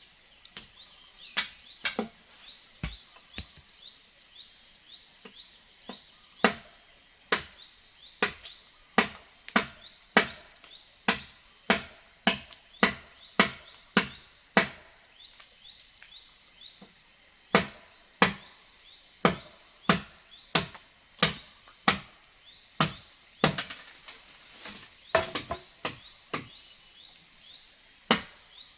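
Repeated chopping blows into wood, about one a second, in long runs with a short pause about halfway through. Insects chirr steadily underneath.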